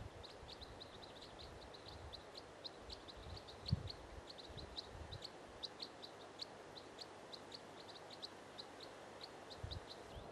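A small bird giving a long run of short, high chirps, about four a second and unevenly spaced, faint over a soft background hiss. There is one low thump nearly four seconds in.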